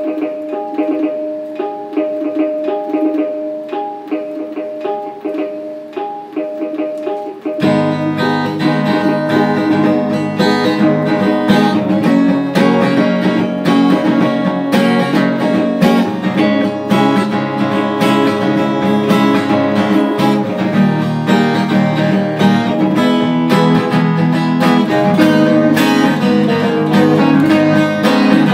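Guitar playing an instrumental intro: first a picked figure with a repeated high note, then about seven and a half seconds in the sound suddenly turns fuller, lower and louder, with strummed chords.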